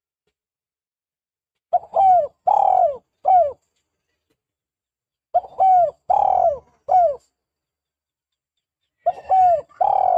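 Spotted dove cooing: three phrases of about four coos each, a few seconds apart, with the third coo in each phrase the longest and each coo dropping in pitch at its end.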